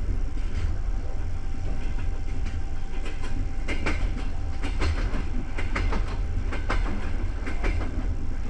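Passenger railway carriage rolling along with a steady low rumble, and a run of sharp wheel clacks over rail joints beginning about three seconds in.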